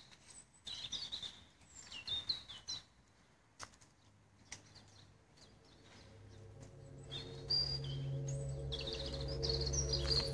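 Birds chirping in short, quick phrases, with a low ambient music drone fading in about halfway through and growing louder.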